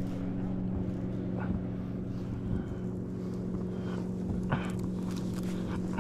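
Steady, even hum of a small boat motor pushing the kayak along while trolling, with a few faint knocks.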